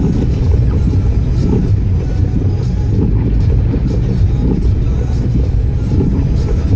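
Steady, loud low rumbling noise with faint scattered ticks.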